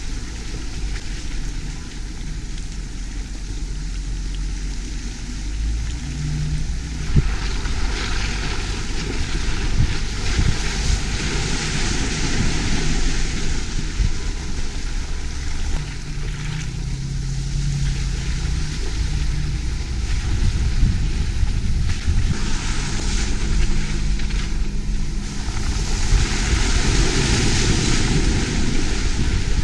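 Off-road vehicle driving along a trail: a steady low engine rumble under a broad rush of wind and tyre noise that swells and eases every few seconds.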